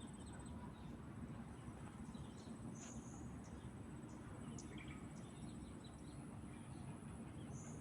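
Steady low rush of a small stream, with a continuous high-pitched insect drone and scattered short bird chirps.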